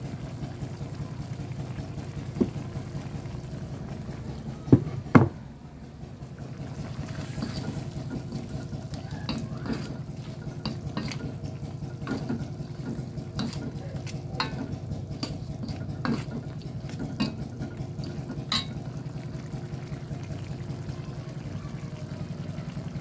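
A metal utensil stirring food in a pan: sharp clinks and taps against the cookware, roughly one a second through the middle of the stretch, after two louder knocks about five seconds in, over a steady low hum.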